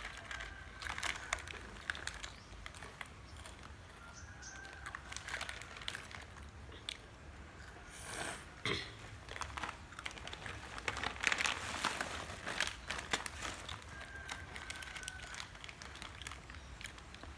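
Crunchy snack being chewed, with a plastic snack packet crinkling and rustling in scattered crackles.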